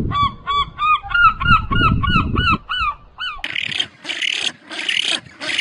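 Goose honking in a rapid run of short, arched calls, about four a second. About three and a half seconds in it cuts abruptly to a hissing, rushing noise in short pulses.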